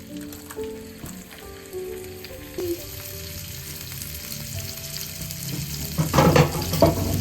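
Food sizzling in a frying pan. The hiss builds a few seconds in, then flares loudly with crackling and stirring near the end, over soft background music.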